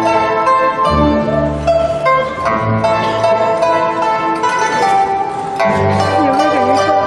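Live Chinese traditional instrumental music: plucked strings play a melody of quick, ringing notes over held low bass notes.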